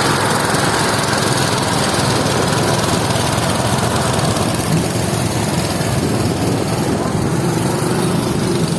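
Engine-driven rice harvesting machine running steadily, a continuous engine and machinery noise.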